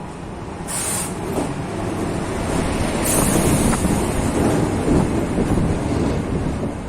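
A train passing close by: rolling rumble that swells over the first few seconds and begins to ease near the end, with two short high hisses about one and three seconds in, and wind on the microphone.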